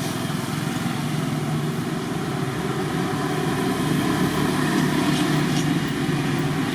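An engine running steadily, a low hum that slowly grows louder.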